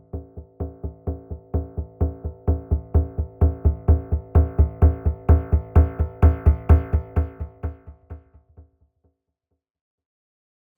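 Short synthesizer music clip: one chord with a deep bass, pulsed about four times a second, growing louder and then fading away about nine seconds in.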